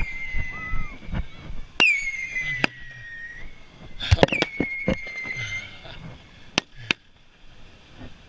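Fireworks going off: three shrill whistles, each sliding slightly down in pitch over about a second and a half, mixed with a run of sharp bangs and pops.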